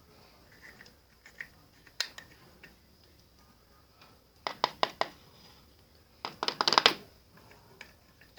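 Pencil clicking and scraping against a small plastic pot of paint while the last of the paint is worked out: scattered sharp clicks, then a quick rattling run of clicks near the end, the loudest part.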